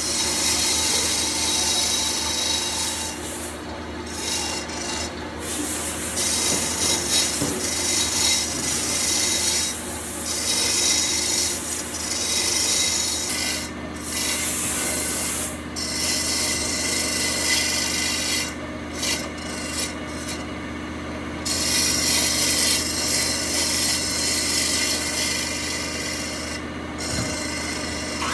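Wood being worked with an abrasive by hand: a continuous scratchy rubbing, broken by several short pauses, over a faint steady hum.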